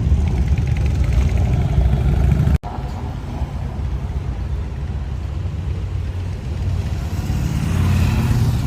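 Motorcycle engine running with steady low wind rumble on the microphone while riding. The sound drops out for an instant about two and a half seconds in, at a cut in the footage.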